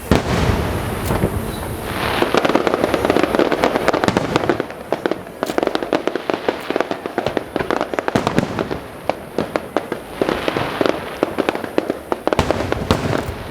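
Fireworks going off in a dense, rapid barrage: many overlapping bangs and crackles, with a loud bang right at the start and thicker crackling swells twice.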